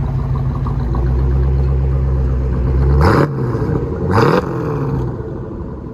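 1984 Corvette C4's 5.7L Cross-Fire Injection V8 idling through a true dual exhaust with high-flow catalytic converters and Flowmaster Outlaw mufflers. It is blipped twice, quick revs about three and four seconds in.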